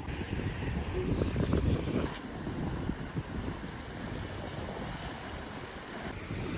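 Wind buffeting the microphone over the wash of sea waves, a rough, rumbling noise that changes abruptly about two seconds in.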